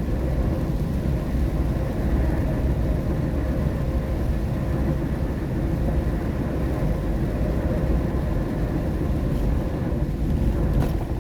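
Steady road and tyre rumble heard inside a car's cabin while driving on a wet road in the rain.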